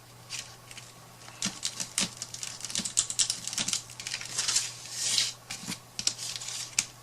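Irregular light clicks and taps, with a short rustle about five seconds in: small craft pieces being handled and set down on a work table.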